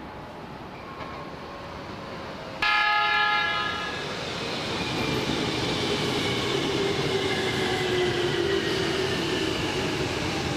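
A red Keikyu electric train sounds a short horn blast of several tones together about two and a half seconds in. It then runs past along the platform, wheels and rails rumbling, with a motor whine that slowly falls in pitch.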